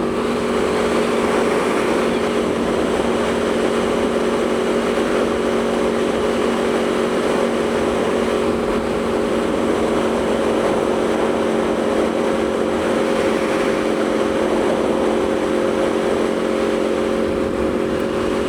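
Aprilia Tuono V4 motorcycle's V4 engine running at a steady cruise, its pitch holding constant, under a steady rush of wind noise on the rider's microphone.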